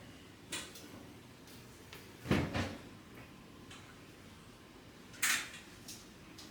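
Household handling noises: a light click, a heavier double knock about two and a half seconds in, and a sharp click a little after five seconds, like drawers, doors or objects being set down.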